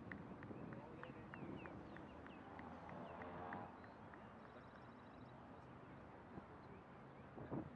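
Quiet open-air ambience with small birds chirping in short, repeated calls. A faint distant voice comes in about three seconds in, and a soft knock near the end.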